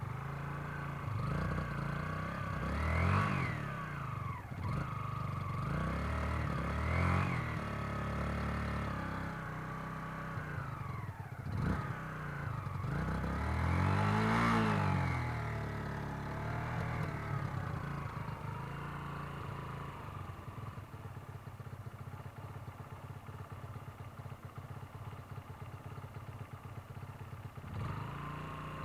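Motorcycle engine revved in three short swells and let fall each time, as the bike is eased forward on the clutch, with a single sharp knock midway; after that it settles to a steady low idle.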